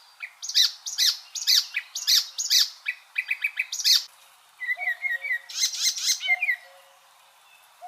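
Icterine warbler singing: quick runs of sharp, repeated high notes, then a fast chattering phrase, with a short pause near the end.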